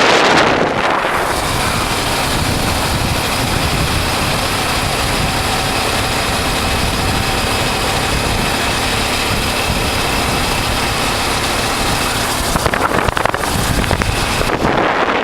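Honda Transalp's V-twin engine running steadily while riding, heard under road and wind noise. Wind buffets the microphone in the first second and again over the last few seconds.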